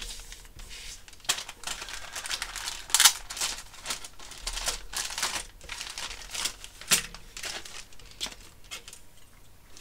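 Crinkling and rustling of the model kit's plastic parts bags and sprues being handled, with irregular crackles and one louder crackle about three seconds in.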